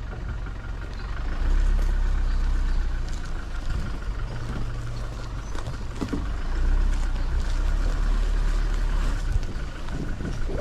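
Vehicle engine running at low speed, its low rumble swelling twice as it pulls harder, with a few short knocks and rattles from the vehicle moving over a rough bush track.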